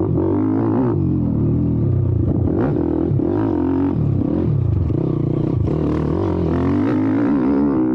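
YCF 190 Daytona pit bike's single-cylinder four-stroke engine revving hard as the bike is ridden, the pitch rising and falling about once a second through throttle and gear changes.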